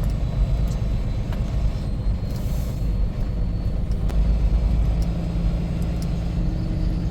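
Tractor-trailer under way: a steady low rumble of engine and road noise.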